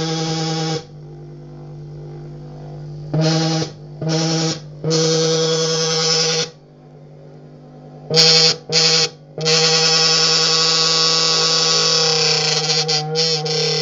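An empty dinner plate made to give out a harsh, buzzing drone at one steady pitch. It sounds in several bursts: one that stops within the first second, a few short and longer ones in the middle, then one long stretch that runs on with small wavers near the end.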